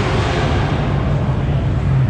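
Car engine running with a steady low rumble, with a rushing noise over it that fades away about two-thirds of a second in.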